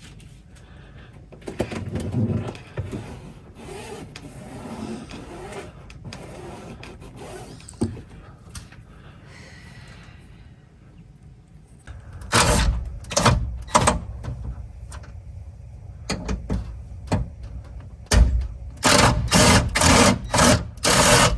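Work noise inside a pickup's door while the window regulator is unbolted: quiet handling and rattling at first, then from about twelve seconds in a series of loud, short mechanical bursts, each under half a second, in three groups, with the last group the densest.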